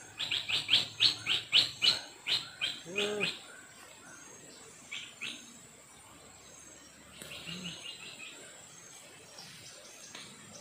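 A bird calling in quick runs of short, high, downward-slurred chirps, about four a second: a long run at the start, two single notes a couple of seconds later and a shorter run near the end.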